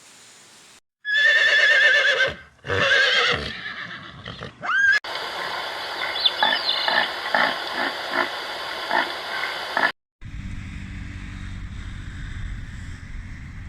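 Horse whinnying: two loud neighs with a quavering, wavering pitch, then further horse sound with regular knocks about twice a second, edited together from separate recordings. A low, steady rumbling noise follows near the end.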